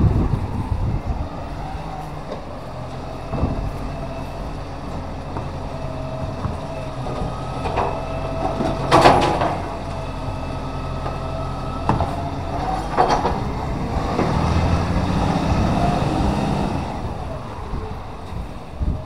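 A recycling collection truck's diesel engine runs steadily, with a steady whine that builds and then stops, a loud metallic clank about halfway through, and a few smaller knocks.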